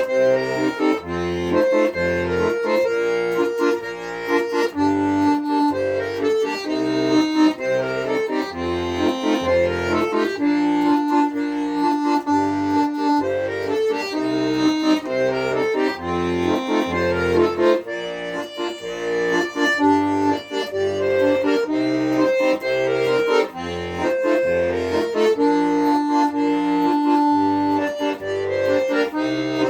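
Accordion playing an instrumental passage: a melody over a steady rhythmic accompaniment of low bass notes and chords.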